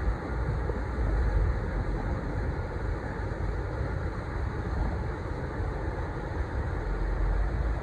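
Steady low rumble of a ship's engine running, deep and even with no distinct knocks or changes.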